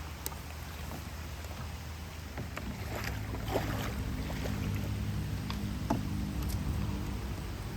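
Small boat on a river: a low steady motor hum that grows stronger about three seconds in, with a few sharp knocks and a background hiss of rain.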